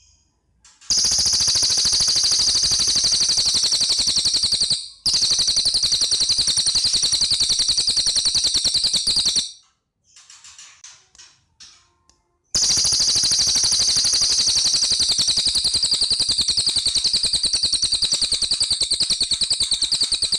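Cililin bird singing long, very fast rattling trills in three extended bouts. The first two are separated by a brief break, and there is a longer pause with a few faint chirps before the third. This rapid-fire trill is the song bird keepers call 'nembak' or 'AK 47'.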